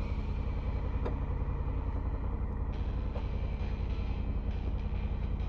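Honda Africa Twin motorcycle engine running at a steady speed, with a heavy low rumble underneath.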